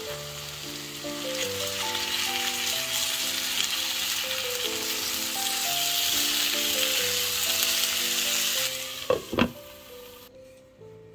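Diced potatoes, onion and carrot sizzling in oil in a frying pan while being stirred with a silicone spatula. About nine seconds in, a glass lid clinks twice onto the pan and the sizzling dies down. Soft background music plays throughout.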